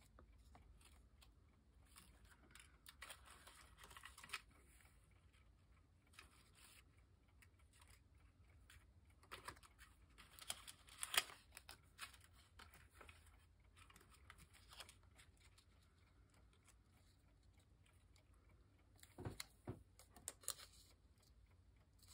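Mostly near silence, with faint paper being handled, rustling and clicking in a few short spells, the loudest about halfway through and another near the end.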